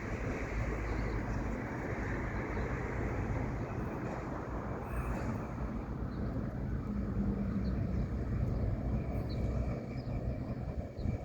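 Diesel rail vehicle running, a steady low engine drone with rumble.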